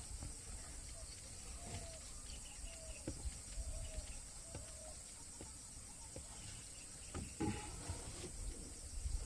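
Jungle ambience: a steady high drone of insects with a handful of short bird calls about a second apart in the first half, and a few low bumps.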